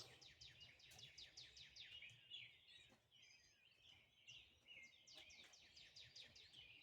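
Faint birdsong: songbirds giving rapid runs of short, falling chirps, one run at the start and another after about five seconds.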